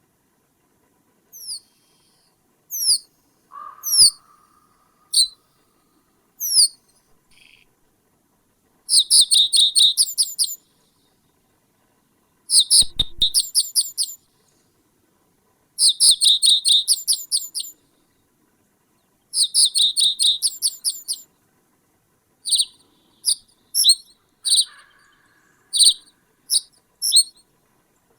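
A bird calling: single sharp, high downward-sliding notes, then four quick runs of rapidly repeated notes about a second and a half each, ending with spaced single notes again.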